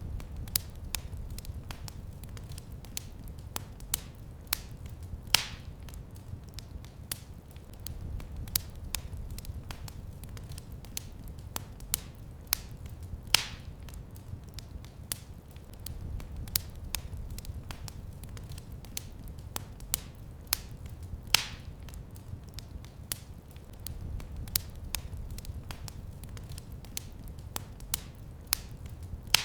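Fireplace fire crackling: frequent sharp snaps and ticks over a low steady rumble, with a louder, longer pop about every eight seconds.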